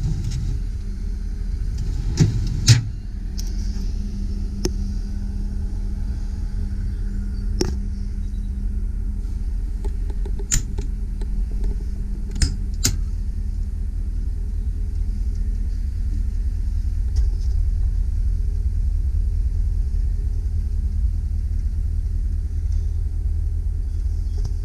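A 2001 GMC Sierra 3500 HD bucket truck idling with a steady low hum. Over it come about seven sharp metallic clicks and knocks in the first half, as utility-body compartment doors and a pull-out shelf are handled.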